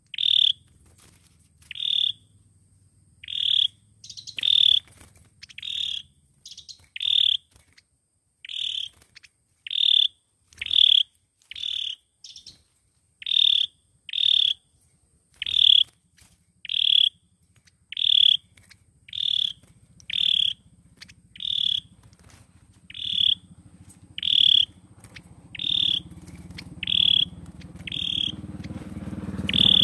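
A sâu dừa bird (Vietnamese songbird) calling: short, sharp high notes repeated about once a second, the lure call used to draw birds to a trap. A low engine rumble builds near the end.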